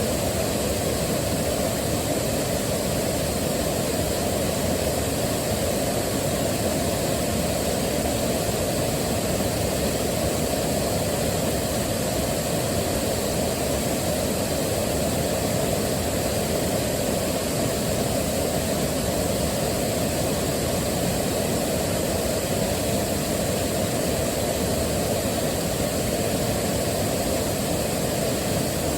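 Waterfall rushing, a steady even wash of falling water, heaviest in the low end and unchanging throughout.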